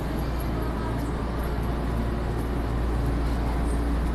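Steady low rumble and hum of a train.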